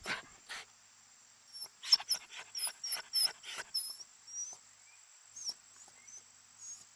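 An animal's high-pitched squeaking chirps, about a dozen short calls that bend in pitch, mixed with brief rustling or snuffling noises.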